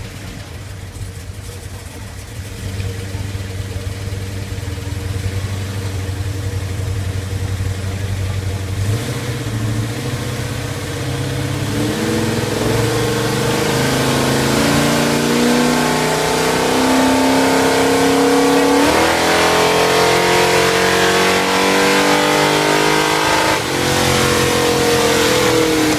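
Big-block Chevrolet V8 in a Chevelle, running through a Magnaflow 3-inch exhaust during a dyno pull. It holds a steady low note for about nine seconds, then accelerates, its pitch and loudness climbing. Near the end the pitch falls back sharply twice and climbs again.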